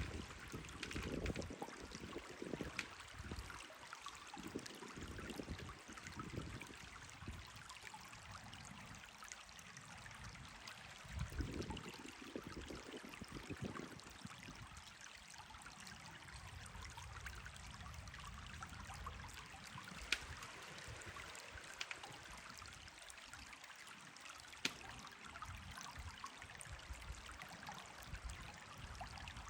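River water running steadily over stones. Low gusts of wind buffet the microphone during the first half, and two sharp ticks come later on.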